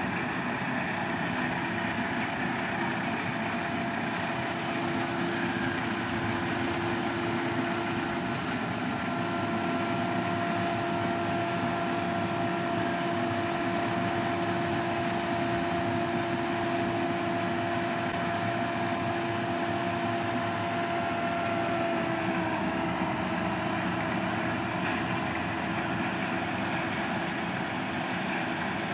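Forage harvester's engine and chopping unit running steadily under load while chopping barley for silage, heard from inside the cab, with a steady whine over the din. The pitch dips slightly about three quarters of the way through.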